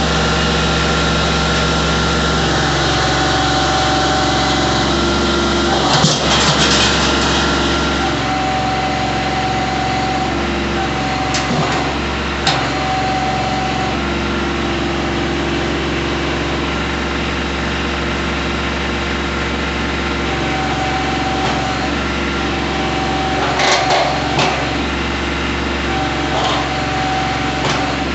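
Kubota B2320 compact tractor's three-cylinder diesel running steadily. Over it a hydraulic whine comes and goes in stretches of a few seconds as the controls are worked, with a few short clunks from the moving plow.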